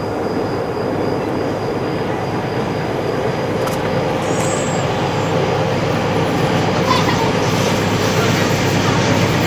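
Approaching train, its rumble and rail noise growing steadily louder as it nears.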